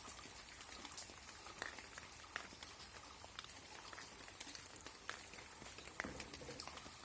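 Light rain falling, with faint scattered raindrop ticks and drips at an irregular pace and a slightly louder drip-and-thud about six seconds in.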